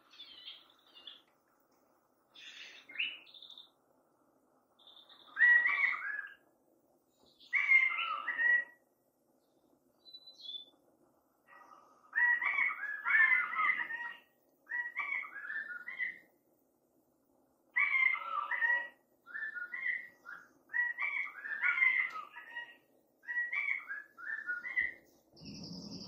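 A songbird singing: about a dozen short song phrases, each a second or so long, repeated with short pauses between them.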